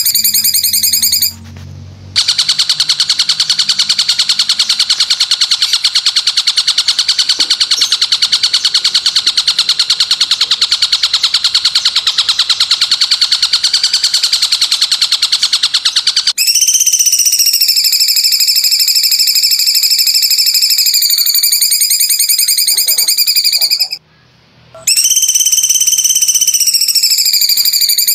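Masteran tutoring recording of a loud, high-pitched buzzing call. After a short gap it pulses very rapidly at an even pitch, and from about 16 s it turns into long tones that slowly dip and rise in pitch, with another brief break near the end.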